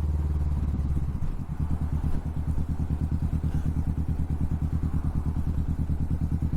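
Kawasaki Vulcan S parallel-twin engine running through an aftermarket Hoonk twin exhaust, a steady low note that dips briefly about a second and a half in, then goes on with an even pulsing beat.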